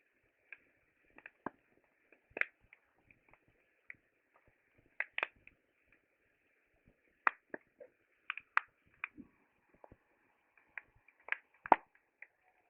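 Wood campfire crackling: irregular sharp pops and snaps of burning wood over a faint steady hiss, the loudest pop near the end.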